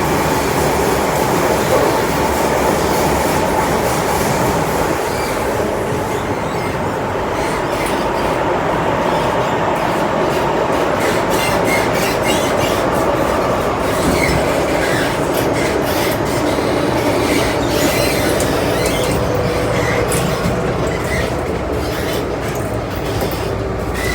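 Metro-Cammell M-Train electric multiple unit running, heard from inside the car: a steady rumble of wheels on rail with a running whine. Near the end the whine drops in pitch as the train slows to stop at the station.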